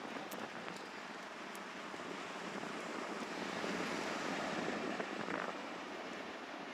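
A steady rushing noise, swelling a little about halfway through and easing again, with no clear pitch or rhythm.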